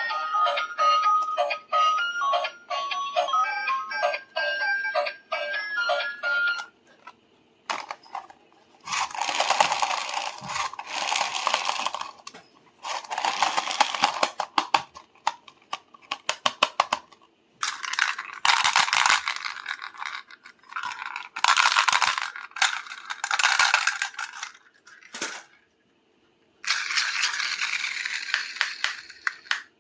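A short electronic tune of beeping notes plays, then stops suddenly. It is followed by repeated bursts of dense crackling and rattling, typical of toy packaging being handled and opened, each lasting one to three seconds with short quiet gaps between them.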